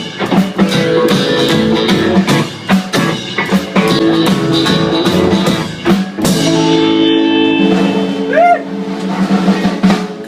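Live rock band playing an instrumental passage: a drum kit hits steadily under sustained guitar chords. About six seconds in there is a large crash, and the chords are held from there on.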